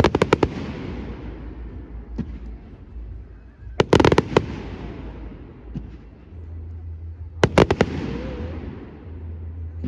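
Fireworks display: three volleys of rapid sharp bangs, about four seconds apart, each trailing off in a fading crackling hiss.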